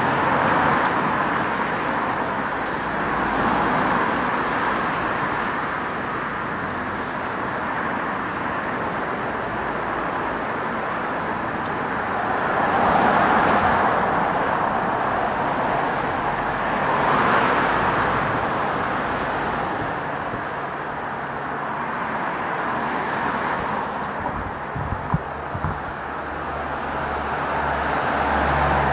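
Steady road traffic, with cars passing one after another and the noise swelling and fading as each goes by. A few brief low thumps come about 25 seconds in.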